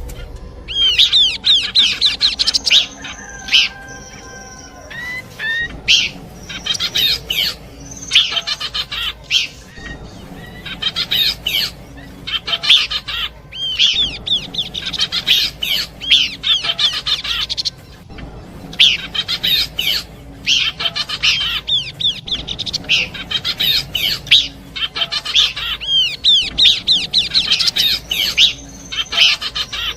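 Pelanduk semak (Horsfield's babbler) singing: bursts of quick, high, downward-slurred notes, repeated every second or two with short pauses between, and a few short steady whistles near the start.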